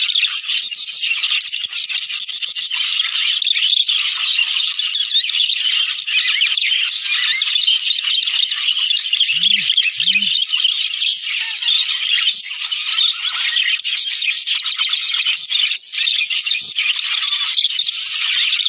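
A flock of budgerigars chattering and warbling without a break, many quick overlapping chirps. This is the kind of flock chatter played to budgies to encourage them to breed.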